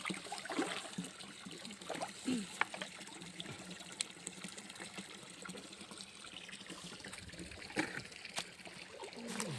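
Water trickling steadily in a stream, with a few faint knocks and distant voices over it.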